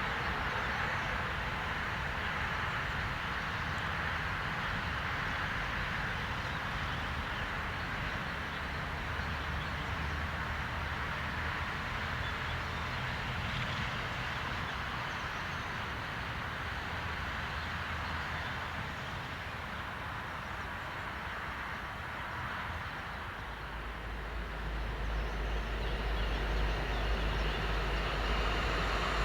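Train on the track: a steady rolling rumble and rail noise, with a deep hum growing louder over the last few seconds.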